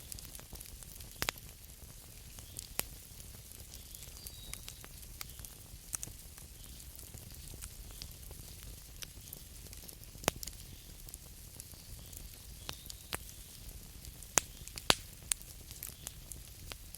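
Wood campfire crackling: a steady hiss with irregular sharp pops and snaps, a few much louder than the rest, two of them close together near the end.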